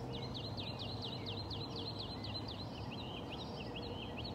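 A bird singing a fast series of short, high repeated chirps, about four or five a second, over a steady low outdoor hum.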